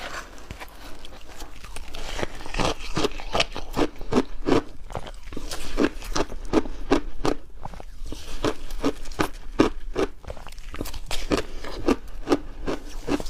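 Refrozen shaved ice being bitten and chewed close to the microphone: a steady run of crisp crunches, about two to three a second.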